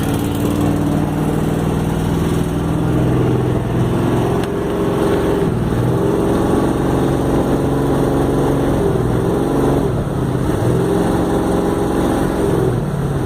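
Speedboat's V8 engine running and being revved, its pitch rising and falling several times.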